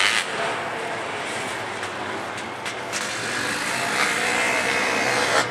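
Racing sidecar outfits' motocross engines running on the circuit, a steady engine noise with one engine getting louder over the last second or so.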